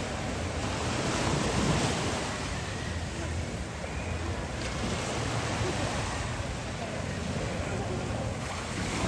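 Ocean surf washing up on a beach, swelling and easing, with wind rumbling on the microphone.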